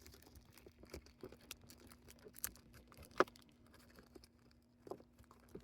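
Faint rustling and light taps of small items being handled and sorted by hand, with a sharper tap about three seconds in, over a faint steady hum.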